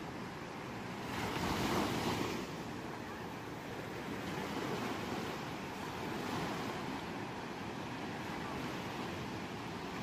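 Ocean waves washing on a shore at night: a louder wave surges in about a second in and falls back, followed by softer swells.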